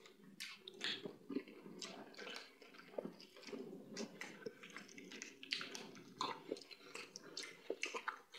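Close-miked eating of fufu and palmnut soup by hand: chewing and mouth smacks mixed with the wet squish of fingers working the soft fufu in the soup, as many irregular small clicks and smacks.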